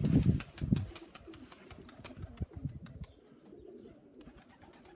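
Domestic pigeons cooing in low, pulsing calls, loudest in the first second and softer after, with faint high ticks throughout.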